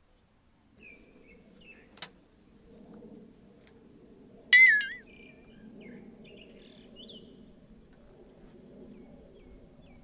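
Birds chirping on and off, with a sharp click about two seconds in and a short, loud ringing clink halfway through, over a faint steady low background.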